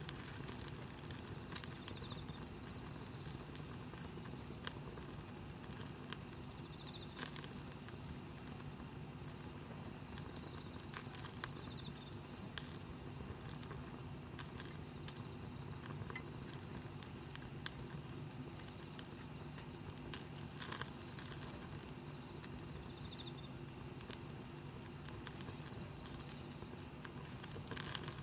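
Wood campfire crackling, with scattered small pops and snaps over a steady low hiss. A high thin buzz of about two seconds sounds four times.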